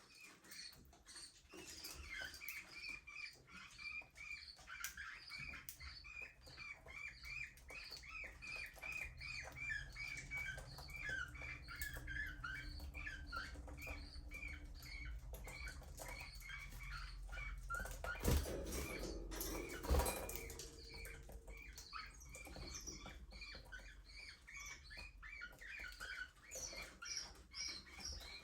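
A flock of budgerigars chirping and chattering without pause, many short quick calls overlapping. Two sharp knocks, about two seconds apart, stand out a little past the middle.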